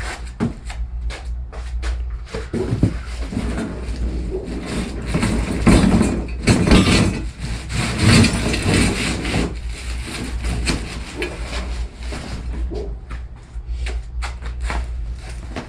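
Exhaust parts and their packaging being handled during unboxing: cardboard and wrapping rustling, with many small knocks and clicks of parts and boxes, loudest in a stretch of rustling in the middle.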